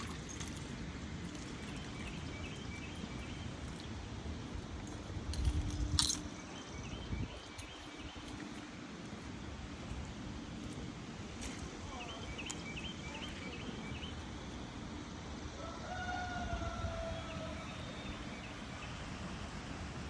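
Outdoor ambience: a steady low rushing noise with short, repeated high chirping calls now and then, a falling two-tone animal call near the end, and a thump with a click about six seconds in.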